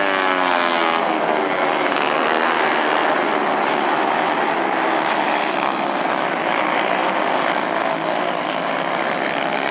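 110 cc race motorcycles running at high revs on the track. One engine's pitch falls as it passes in the first second, then the dense, steady sound of several engines continues.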